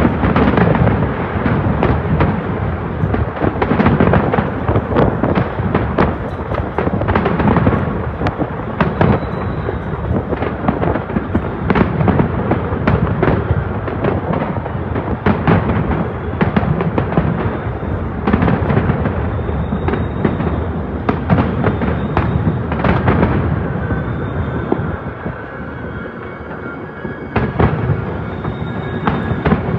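Distant fireworks display: a dense, continuous barrage of bangs and crackling, easing briefly about three-quarters of the way through before picking up again.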